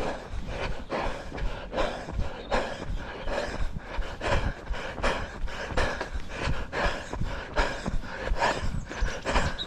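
A runner's heavy, rhythmic breathing close to the microphone, a breath about every half second, with the low thuds of footfalls underneath.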